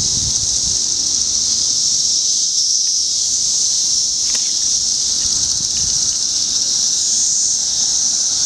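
Chorus of cicadas buzzing: a loud, steady high-pitched drone with no break.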